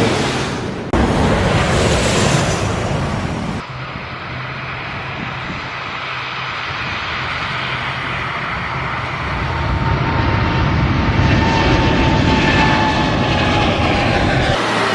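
Jet airliner engines: a steady noisy rush, broken by abrupt changes about a second in and again near four seconds. Later a high, slowly falling whine grows louder.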